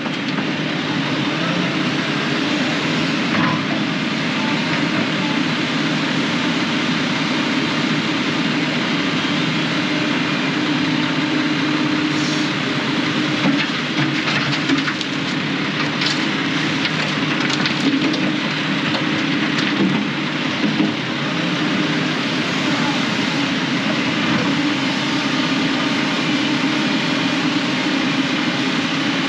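Dump truck running steadily, a constant engine drone mixed with road and cab noise, with a few light knocks or rattles along the way.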